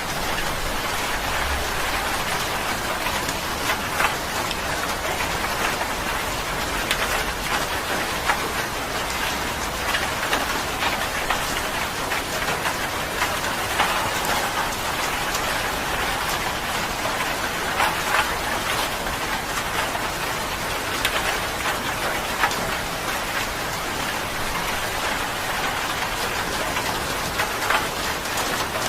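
Steady rain falling, with a constant hiss and many individual drops landing close by as sharp taps scattered through it.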